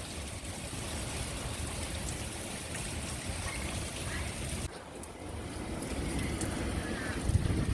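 Hurricane-force wind and rain, with the wind buffeting the microphone in a steady low rumble under a hiss of rain. It drops suddenly about two-thirds of the way through, then builds again.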